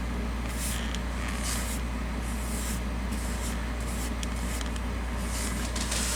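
Paintbrush strokes brushing thinned acrylic paint onto a model building's siding, heard as soft, irregular swishes over a steady low hum.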